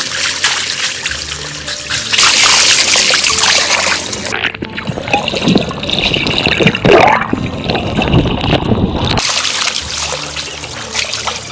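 Water trickling and splashing in edited segments, over faint background music.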